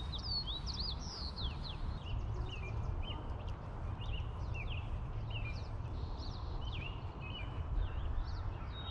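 Songbirds chirping and singing, many short quick notes that slide up and down, over a steady low rumble.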